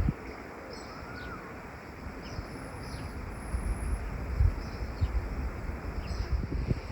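Songbirds calling: short, high, downward-sweeping notes repeated every second or so, with one lower curving whistle about a second in, over a steady soft wind rustle.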